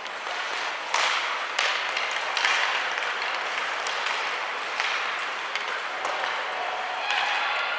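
Ice hockey play in a rink: skates scraping the ice with sharp clacks of sticks and puck every second or so.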